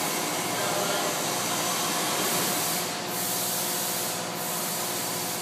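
Ford Coyote 5.0 DOHC V8 running at a steady idle on its first start-up after the swap into the 1968 Mustang, with a fast, even exhaust pulse.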